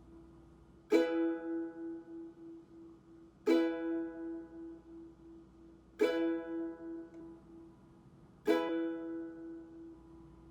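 Ukulele strummed down on an E chord four times, about two and a half seconds apart, each chord left to ring out and fade.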